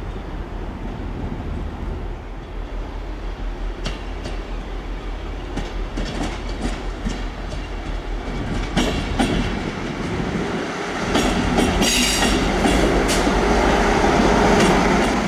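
Network Rail Multi-Purpose Vehicle (MPV), a diesel weedkilling unit, passing over pointwork. Its engine runs steadily under a series of sharp wheel clicks over the rail joints and crossings, and it grows louder about two thirds of the way in as it draws close.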